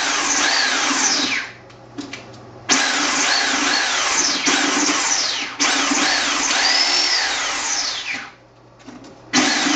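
Ryobi reciprocating saw running in three bursts, a short one, a long one of about five seconds, then another near the end, its motor whine rising and falling in pitch as it saws through a turkey carcass.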